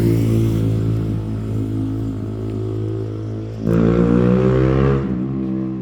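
Motorcycle engine running loudly close by, its note swelling about two-thirds of the way through and then easing back; noisy.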